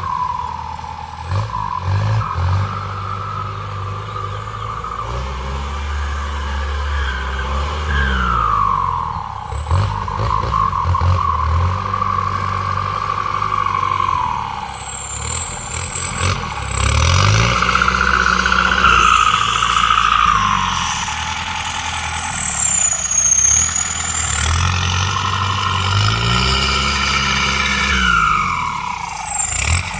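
Tractor engine running under changing load, its pitch rising, holding and dropping back several times, with a whine that rises and falls along with it.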